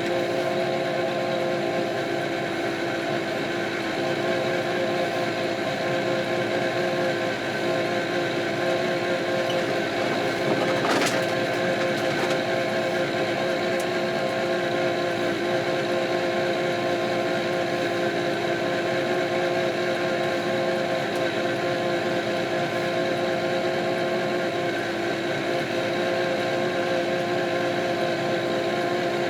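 Kioti RX7320 tractor's diesel engine running at a steady speed, heard as an even drone with constant tones. One short sharp click comes partway through.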